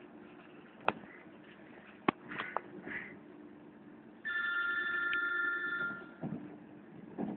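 Train running, with a low steady hum and a few sharp clicks from the carriage. About four seconds in, a loud, high, steady ringing tone of several pitches sounds for nearly two seconds, then stops.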